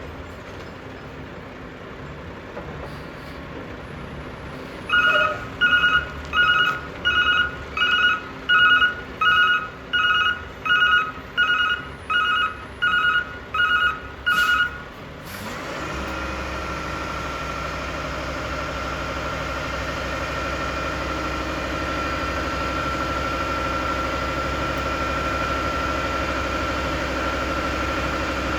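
Truck reversing alarm beeping steadily, about fifteen beeps at roughly one and a half a second, which then stop. A heavy truck engine then runs steadily, with a faint constant whine, growing slightly louder.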